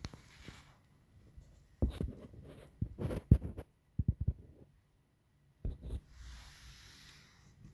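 A string of irregular knocks and taps in small clusters, with faint rubbing or scraping between them.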